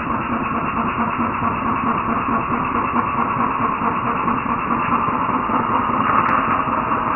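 Cordless DeWalt compact reciprocating saw running steadily under power.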